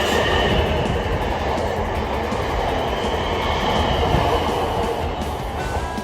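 A train running past close by: steady noise of wheels on the rails, with faint high tones held above it.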